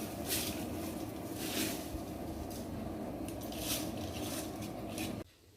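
Soaked rice going into a pot of boiling water and being stirred: a steady bubbling bed with repeated short scraping swishes, cutting off suddenly about five seconds in.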